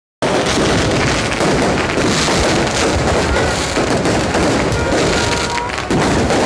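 Dense fireworks barrage: a continuous, loud mass of crackles, bangs and booms that starts abruptly, with a few faint short whistles in the middle and a brief dip near the end.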